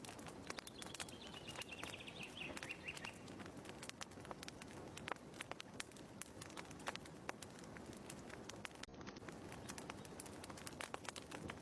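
Wood fire crackling in a fireplace: a steady run of irregular small pops and snaps. A bird trills faintly behind it from about half a second to three seconds in.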